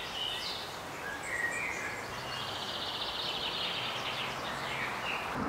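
Songbirds chirping and singing in short warbled phrases, with a fast trill in the middle, over a steady outdoor background hiss.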